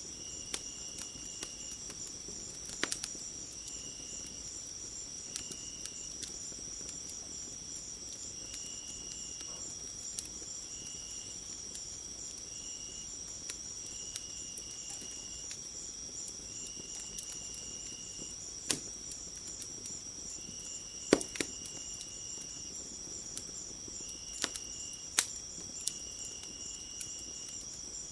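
Crickets chirring steadily, with another insect's short trills starting and stopping, over a wood fire that gives a handful of sharp crackles and pops.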